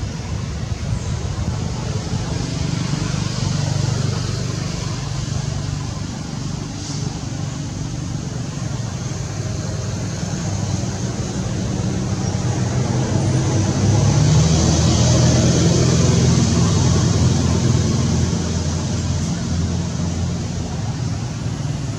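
Motor traffic: vehicle engines humming steadily, growing louder for a few seconds past the halfway point as a vehicle comes close.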